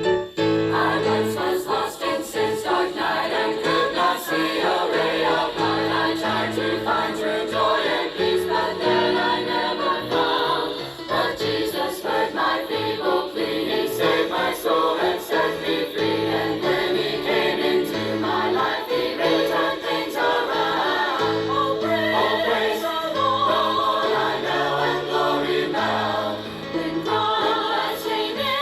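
A gospel choir singing a hymn in several parts, accompanied by piano.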